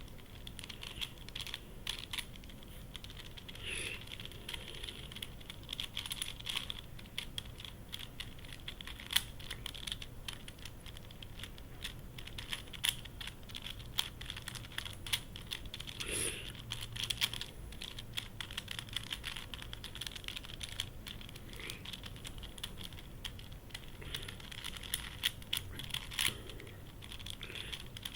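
YuXin Corner Helicopter 2x2 twisty puzzle being turned fast by hand: a continuous, irregular run of plastic clicks and clacks as its pieces twist and snap into place.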